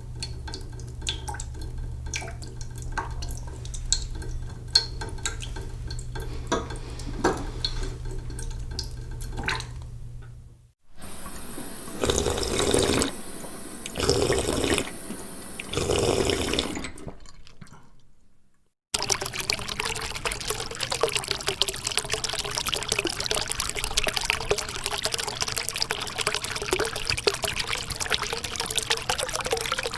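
Three water recordings in turn. First, a cooking pot filling slowly in a sink: small trickling drips over a low steady hum. Then, about eleven seconds in, water from a drinking fountain in three surges. From about nineteen seconds, a fountain's water bubbling steadily.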